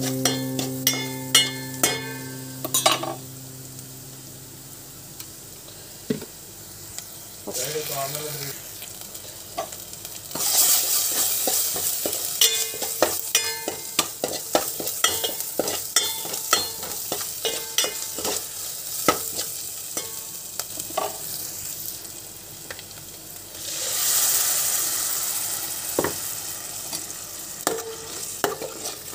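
A steel spatula scraping and tapping a stainless steel pan while chopped onions and green chilli fry with a light sizzle. About 24 s in, the sizzling swells loudly as tomato purée hits the hot oil.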